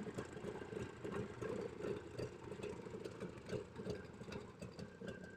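Jawa 638 motorcycle's two-stroke twin-cylinder engine idling with a steady, uneven throb.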